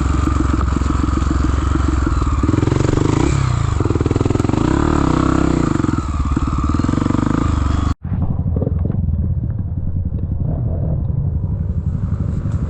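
Off-road trail motorcycle engine running, its revs rising and falling. The sound breaks off for an instant about eight seconds in and an engine carries on, more muffled.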